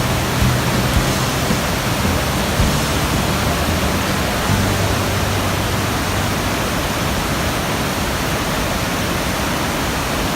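Loud, steady roar of the Victoria Falls, the Zambezi River pouring over the edge into the gorge.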